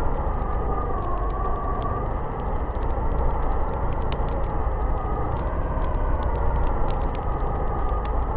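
Snowstorm wind blowing steadily, a deep rush with a whistling howl that wavers slowly in pitch, and faint scattered ticks.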